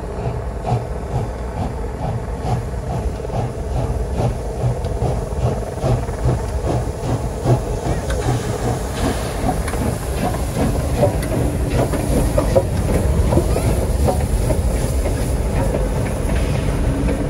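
Steam train running by, with a steady rhythmic clatter over a low rumble. A hiss of steam builds and the sound grows louder from about halfway through.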